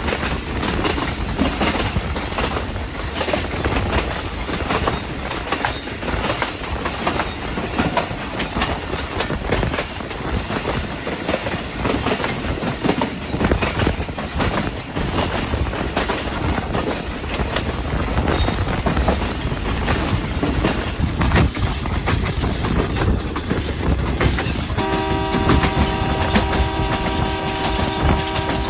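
Passenger train running at speed, its wheels clacking over the rail joints amid steady rumble. About 25 seconds in, the train horn sounds a steady multi-note blast lasting about four seconds.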